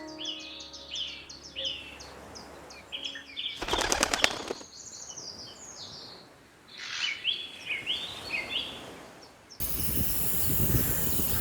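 Small birds chirping in quick repeated high notes, with a brief fluttering burst like wings flapping about four seconds in. Near the end a loud, even rushing noise comes in.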